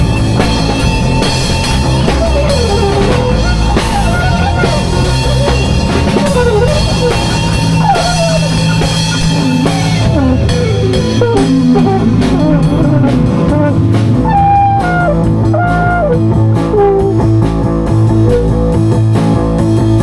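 Live band improvising: drum kit and bass keep a steady groove while a lead instrument plays a melodic line of gliding, bending notes.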